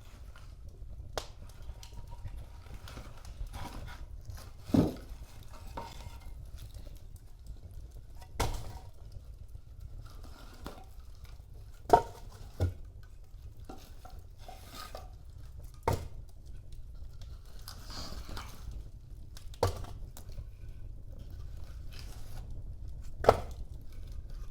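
Wood fire burning in a fireplace: a steady low rumble with faint crackling and about seven sharp pops a few seconds apart, the loudest about halfway through and near the end.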